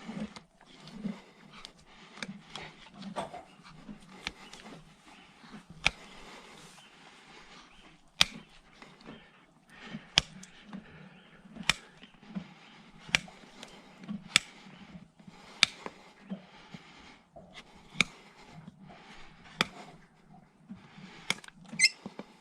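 Farrier's tools working on a horse's hoof: sharp clicks about every second and a half over a faint scraping.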